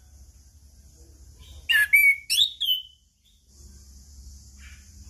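A chestnut-capped thrush (anis kembang) sings a short phrase of loud, clear whistled notes, each sliding down in pitch. The phrase comes about a second and a half in, after a quiet start with a faint low hum, and the next phrase begins at the very end.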